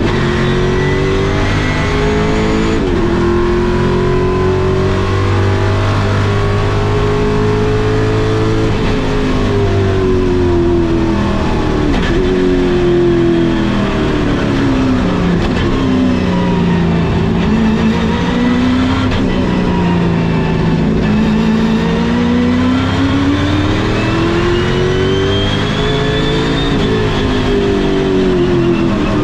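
1969 Chevrolet Camaro race car's V8 engine heard from on board at racing speed, its revs repeatedly falling and climbing again, with a thin whine rising alongside the revs.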